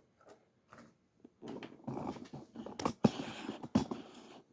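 Handling noises as a toy train tender is brought out and set down: rustling, with several sharp clicks and knocks in the second half.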